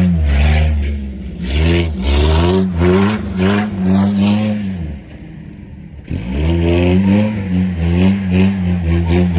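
Truck engine revving hard in repeated rises and falls as its 32-inch tyres spin in dirt. About five seconds in the revs drop away and it goes quieter, then the engine comes back in sharply a second later and revs up again.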